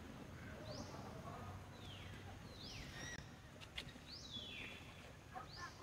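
Faint forest ambience with a bird giving repeated sweeping whistled calls, some rising and some falling, about one a second, and a single short click near the middle.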